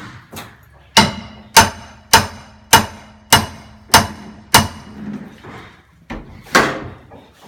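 Seven sharp knocks in a steady rhythm, a little over half a second apart, each ringing briefly with the same tones, then after a pause one more, longer-ringing knock.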